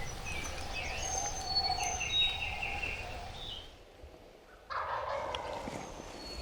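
Wild turkey toms gobbling, with a short lull about four seconds in before the calling picks up again.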